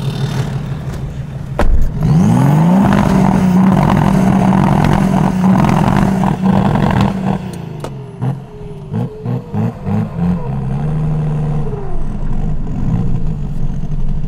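BMW E39 530d's straight-six diesel running; a car door shuts just under two seconds in, then the engine revs up and is held high for about five seconds. It drops back, is blipped several times in quick succession, and settles to a lower steady run as the car pulls away.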